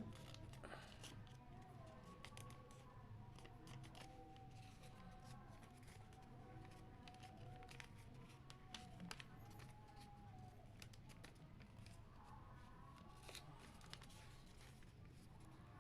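Near silence: a faint low hum with scattered faint clicks and a faint, wavering tone in the background.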